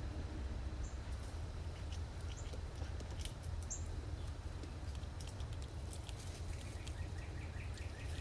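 A few short high bird chirps and a quick run of ticking calls near the end, among many scattered small clicks and taps, over a steady low hum.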